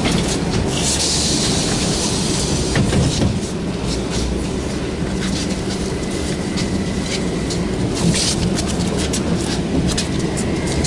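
Cabin noise of a VMZ-5298.01 trolleybus under way: a steady low drone with frequent rattles and clicks from the body and fittings. A hiss starts about a second in and lasts a couple of seconds, and a faint high whine comes in near the end.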